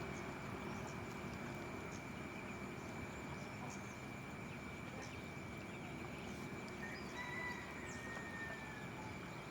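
Rural outdoor ambience: a steady high-pitched insect drone over a constant hiss, with a short whistled bird call that falls slightly in pitch about seven seconds in.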